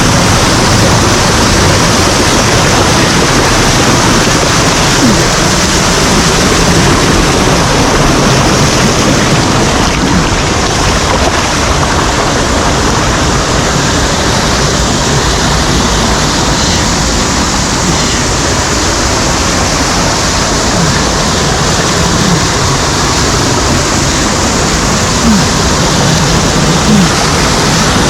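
Loud, steady rush of water from a mountain stream tumbling over cascades and small waterfalls, heard close up.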